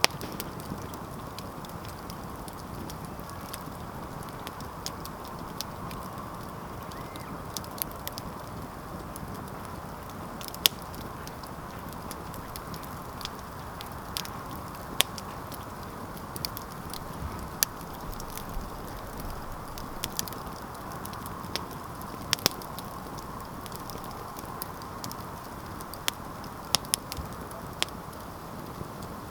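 Wood campfire crackling: irregular sharp pops and snaps, a few of them much louder, over a steady low hiss of burning.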